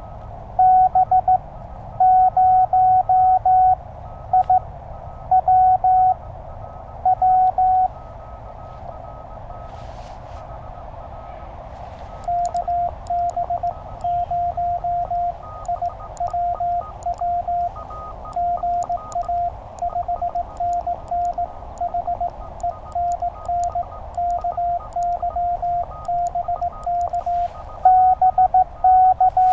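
Morse code from a Penntek TR-35 QRP transceiver: the operator's own sending as loud keyed sidetone for the first several seconds, then a few seconds of receiver hiss. From about twelve seconds in, a quieter station sends back in Morse at the same pitch over band noise, with a fainter signal at a higher pitch underneath, and the loud sending starts again near the end.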